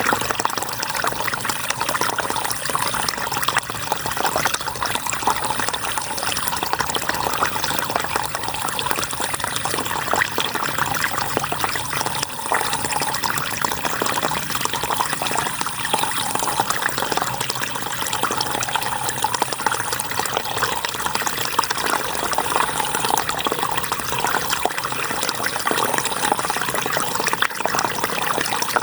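River water flowing, a steady rushing with no pauses. A faint high thin tone comes and goes about every three seconds.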